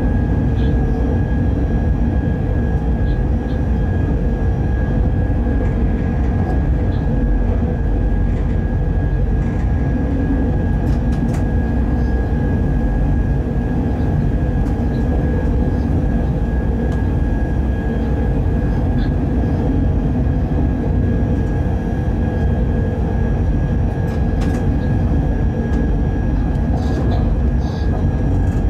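Freight train locomotive running at speed, heard from inside the cab: a steady rumble of wheels on the track, with a steady high tone over it.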